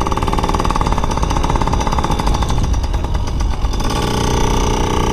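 Small motorcycle engine running with a rapid, rattling beat as the bike pulls away; about four seconds in it changes to a steadier, even tone.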